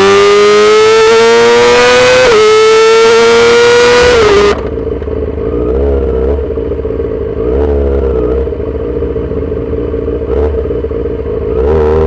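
2008 Yamaha R6's 600 cc inline-four, through a full SC-Project exhaust, accelerating hard. Its pitch climbs, drops back about two seconds in, and climbs again, like a run through the gears. About four and a half seconds in it falls to a quieter, steadier note off the throttle, and it picks up and rises again near the end.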